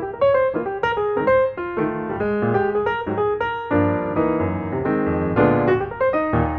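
Background music: a piano playing a quick melodic line of separate notes.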